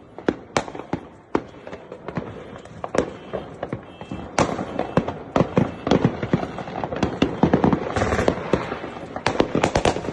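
Firecrackers going off in a rapid, irregular string of sharp cracks and pops, denser in the second half.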